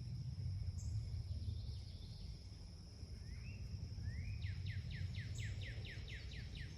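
A songbird calling: a few short rising chirps, then a fast run of about a dozen falling notes, roughly five a second, near the end. Under it a steady high insect drone and a low rumble.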